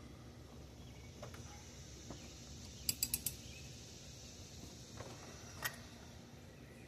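Ratchet and socket clicking faintly: a quick run of four clicks about three seconds in, then one more click a couple of seconds later.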